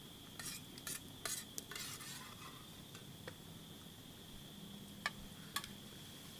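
Faint scraping and stirring of an eating utensil in a food container: a few short scrapes in the first couple of seconds, then two sharp clicks near the end.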